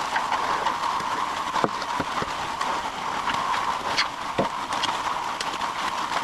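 A MudMixer concrete mixer running steadily, with scattered knocks and clanks over the machine noise.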